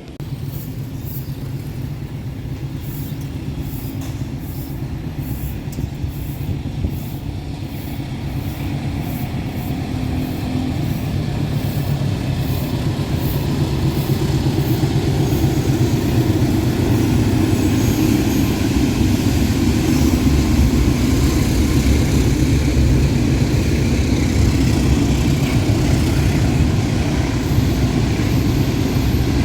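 Train approaching on the line, its diesel engine and wheels making a steady rumble that grows louder through the first two-thirds and then stays loud. Short, sharp clicks come over the first few seconds.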